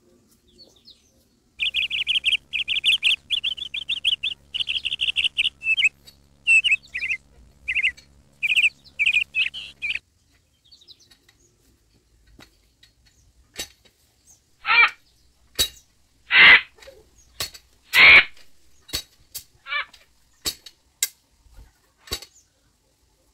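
A bird chirping in quick, repeated trilling phrases for several seconds, followed by scattered short clicks and brief scraping knocks.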